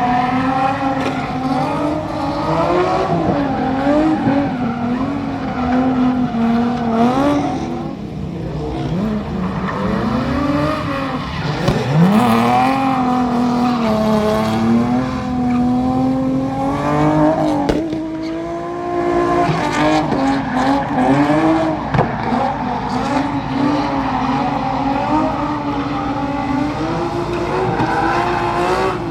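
A drift car's engine at high revs through a drift run, its pitch rising and falling constantly as the throttle is worked, with brief lifts where the revs drop and climb back. Tyres squeal and skid under it.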